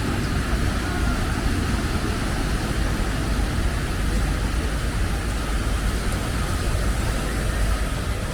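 Steady beach ambience: surf washing continuously, with wind rumbling on the microphone.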